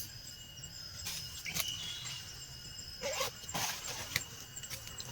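Forest ambience: high, steady insect calls coming and going, with a few irregular crackles and rustles, loudest a little past the middle.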